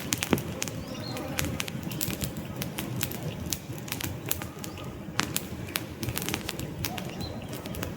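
Wood campfire crackling and popping in quick irregular snaps over a steady low rush of flame, with a faint bird chirp now and then.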